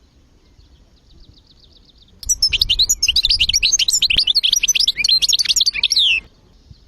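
European goldfinch song: a faint repeated trill, then about two seconds in a loud, fast twittering run of varied high notes lasting about four seconds that stops abruptly.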